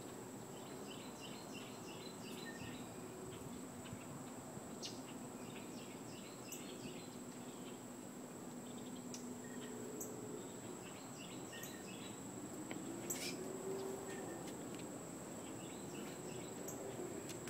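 A songbird sings short phrases of quick repeated chirps every few seconds over a steady, high-pitched insect trill. Occasional light clicks can be heard.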